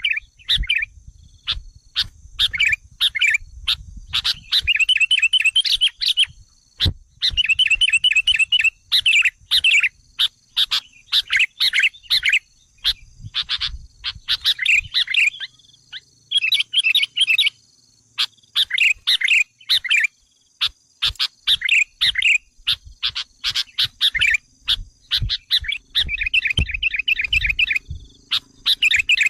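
Sooty-headed bulbuls calling excitedly: bursts of rapid chattering trills and sharp notes follow one another with short breaks. This is the agitated lure call used to provoke wild bulbuls.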